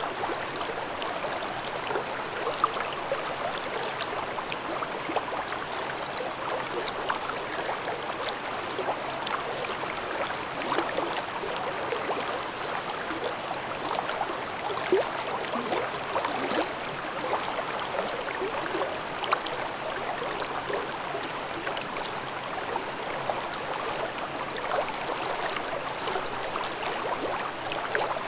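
Mountain stream babbling and gurgling over rocks in a valley, a steady rush with many small bubbling splashes.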